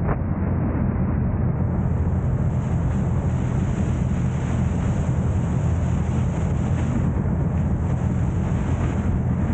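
Steady rumble of a car driving, with road and wind noise on the camera's microphone; a high hiss joins about two seconds in.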